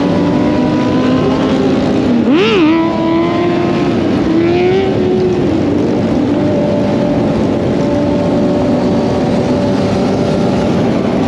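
Motorcycle engine running steadily while riding, with one quick rev up and back down about two seconds in.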